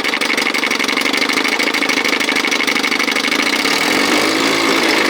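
1957 Sea King 5 hp two-stroke outboard motor running steadily, with rapid even firing and a steady high whine over it. Its carburetor has not yet been dialed in.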